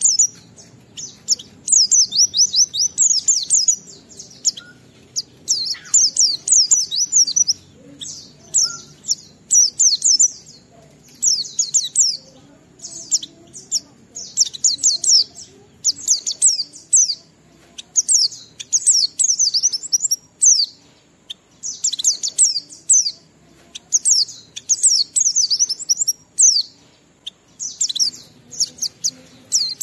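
A white-eye (pleci) singing in full 'ngalas' song: rapid high-pitched twittering phrases, each a second or two long, following one another with short breaks.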